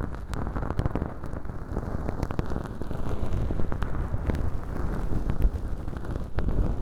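Feather-tuft earpick (bonten) brushing and rubbing inside a model ear canal packed with dry, flaky imitation earwax: a dense, crackly rustling scattered with many small clicks.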